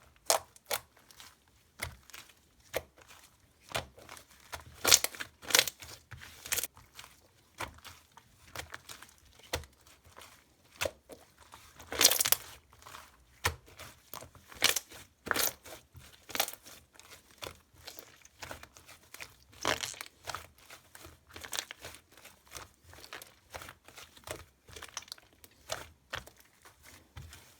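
Purple slime being squeezed, stretched and pressed by hand, giving irregular sticky clicks and pops, a few of them much louder, the loudest about twelve seconds in.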